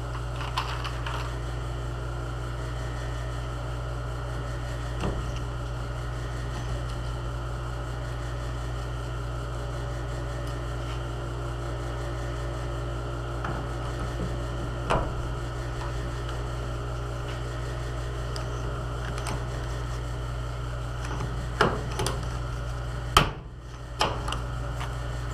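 Electric welder running steadily, joining a steel plate to the frame, with a constant hum and a few sharp clicks. It cuts off suddenly near the end.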